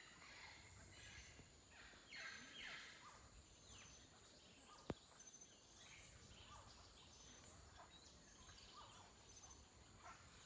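Faint forest birdsong: several birds giving short, downward-sliding calls over a steady high hiss. A single sharp click about five seconds in.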